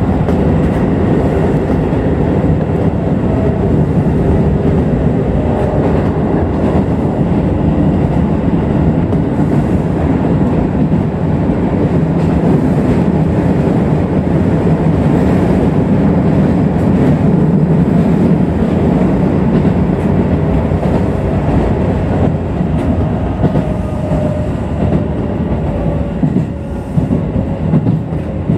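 Keisei Electric Railway commuter train running on the line, heard from inside the driver's cab: a steady, loud rumble of wheels on rail, getting a little more uneven near the end.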